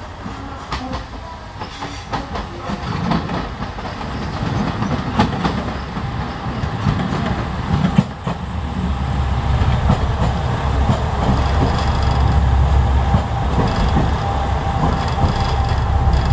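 A diesel train approaches and passes beneath. Its low engine and running rumble grows louder as it nears, with wheels clacking over rail joints.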